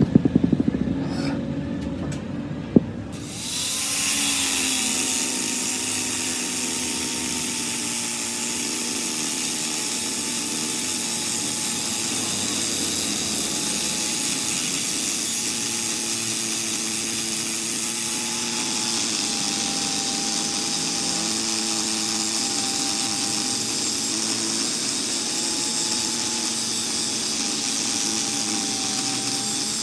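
A few knocks, then from about three seconds in a metalworking power tool runs steadily on the link, a constant hiss with a faint held whine.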